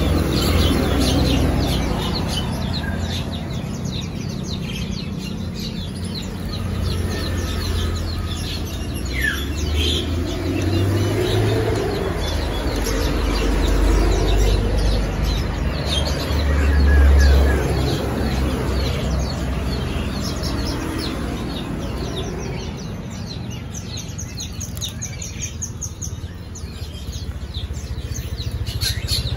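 Small caged birds chirping over and over, above a steady low rumble that swells briefly about 17 seconds in.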